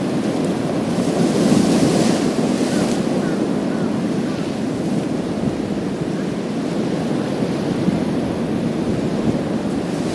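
Sea waves surging and washing over a pebble beach in a continuous wash, swelling with a brighter hiss about one to three seconds in as a wave breaks.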